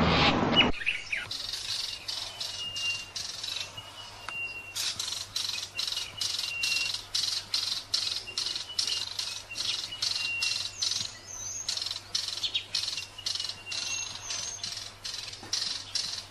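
Bird chirping in short, evenly repeated calls, about three a second, with thin high whistled notes now and then.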